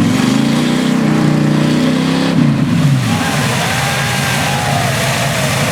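4x4 truck engine revving hard, its pitch holding high and then falling off about three seconds in, followed by a steady noisy rumble.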